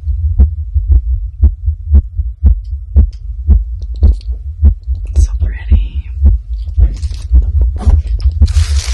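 A woman's heartbeat recorded close up: steady, deep thumps about two a second, a fast heart rate from excitement. Rustling and scraping join it in the last few seconds.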